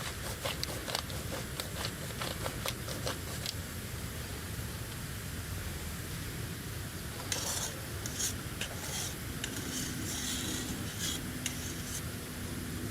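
Light clicking, then a run of irregular scraping strokes from about seven seconds in.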